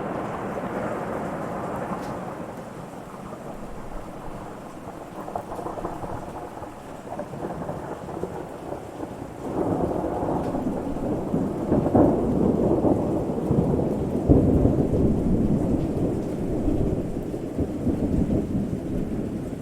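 Thunder rumbling over steady rain: one roll fades away in the first few seconds, and a second, louder roll starts about halfway through and keeps rumbling to the end.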